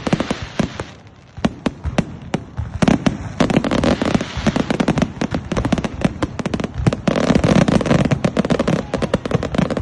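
Fireworks going off in rapid succession: dense sharp bangs and crackles over a continuous rumble, easing briefly about a second in, then building back to heavy continuous crackling.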